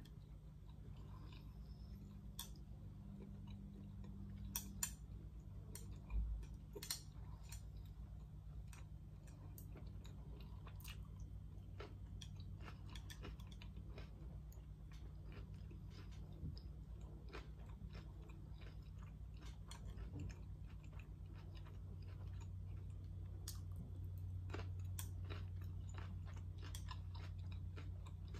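Close-miked chewing and crunching of crisp food, with scattered sharp clicks, a few louder ones a few seconds in, over a steady low hum.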